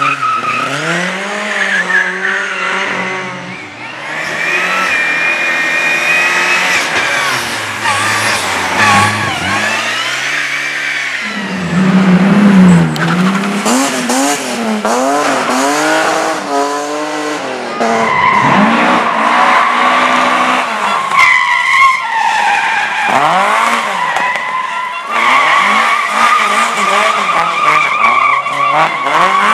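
Race car engine revving hard and repeatedly climbing and falling in pitch through gear changes and braking, with stretches of tyre squeal in the corners.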